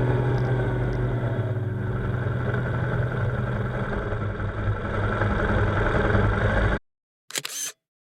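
BMW R1200GS Adventure's boxer-twin engine running steadily on the move. It cuts off abruptly to silence about seven seconds in, and one brief burst of sound follows about half a second later.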